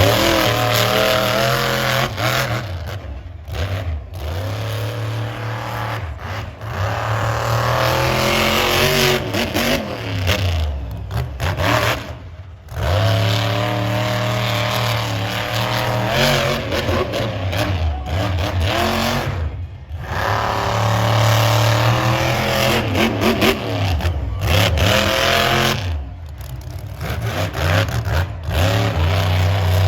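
Monster truck engine revving hard, its pitch climbing and dropping again and again, with a few brief breaks in the sound.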